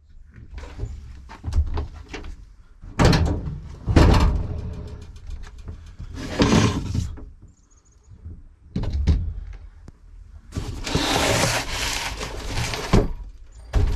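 Irregular knocks, thumps and scraping, with a longer stretch of rushing noise about two and a half seconds long near the end.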